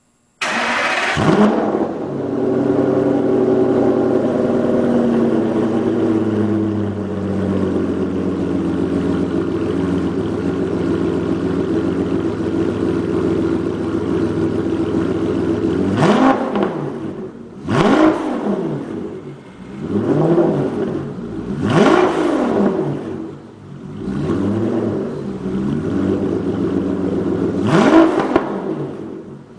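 An Aston Martin DB9's V12, running through an RSC Supersport exhaust with a Fabspeed cat-delete X-pipe, starts on the starter from warm. It flares up, then settles over several seconds into a steady idle. About halfway through come a series of quick throttle blips, each a sharp rise and fall in revs, every couple of seconds.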